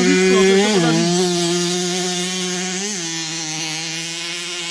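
Small two-stroke motorcycle engine running at high revs: one steady high note that steps down slightly in pitch twice, about a second in and again near the middle.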